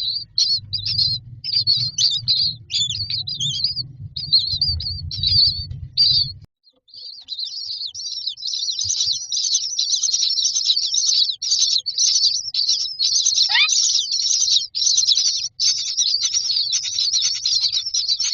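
Common myna nestlings begging in the nest box: rapid, high-pitched chirping. It breaks off briefly about six seconds in, then resumes denser and nonstop, with one falling call partway through.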